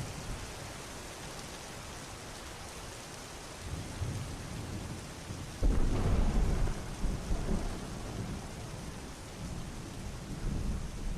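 Steady rain falling, with a clap of thunder about halfway through that breaks in suddenly, rumbles low for a couple of seconds and fades. Fainter rumbles of thunder come a little before it and again near the end.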